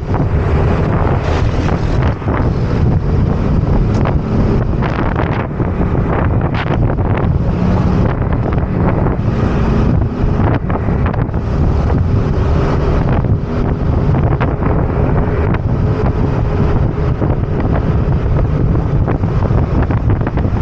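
Heavy wind buffeting the microphone on a moving motor scooter, a constant low rumbling rush, with the scooter's engine faintly audible underneath as a wavering hum.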